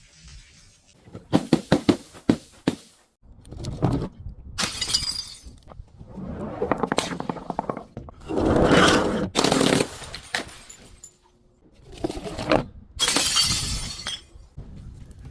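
Glass breaking and crunching in a string of separate smashes: a few sharp cracks early, then longer crunching bursts, the loudest and longest about eight to ten seconds in.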